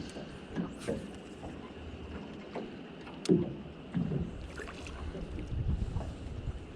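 Wind on the microphone and water against a small boat's hull, with scattered knocks and one sharp click a little over three seconds in.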